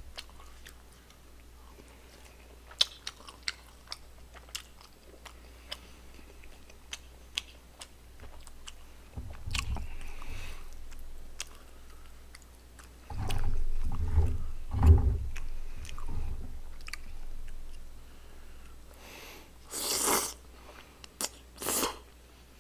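Close-miked chewing of soft, chewy rice cakes and fish cake in sauce, with scattered light clicks, a louder stretch of chewing about thirteen to sixteen seconds in and a brief loud slurp near the end.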